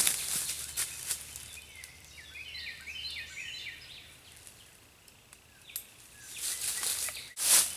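Rustling and handling noise near the start and again near the end, with a sharp loud rustle just before it ends. In between, a bird gives a quick run of short chirping notes.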